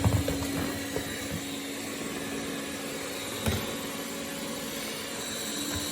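Kärcher RCV 5 robot vacuum running on medium suction, a steady motor hum with one constant tone, as it picks up breadcrumbs from the floor. A single sharp knock about three and a half seconds in.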